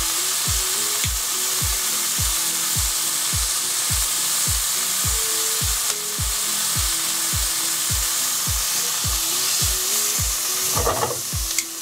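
Broccolini pan-frying in butter, a steady sizzle, over background music with a steady beat.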